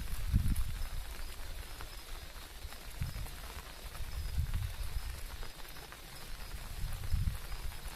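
Rain falling, with uneven low rumbles on the microphone.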